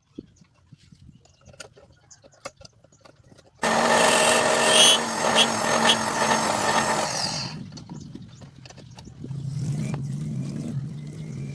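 Small clicks and taps of handling, then an electric power tool motor starts abruptly about three and a half seconds in, runs loud for about four seconds and stops. A quieter low hum follows near the end.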